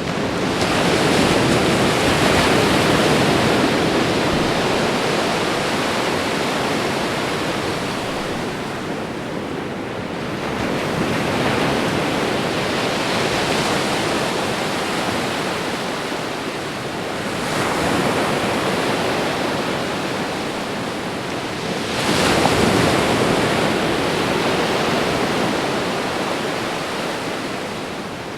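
Ocean waves breaking and washing on a shore: a continuous rushing surf that swells and ebbs, with waves surging in about every five or six seconds.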